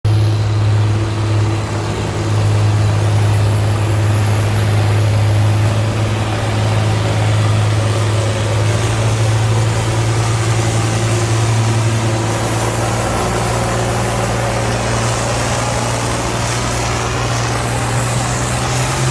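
Antique farm tractor engine running steadily with an even, deep drone. A faint high whine slowly rises in pitch in the background.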